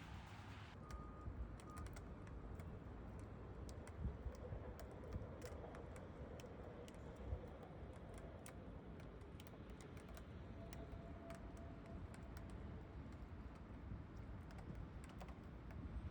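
Wet city street ambience: a steady low traffic rumble with scattered light irregular ticks and taps, typical of raindrops.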